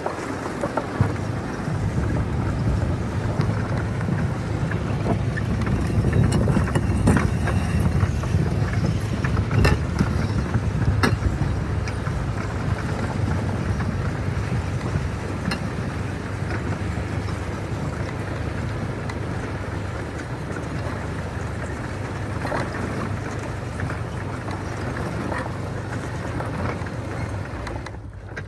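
An engine running steadily, with scattered sharp clicks and clanks. It is loudest during the first third and then settles.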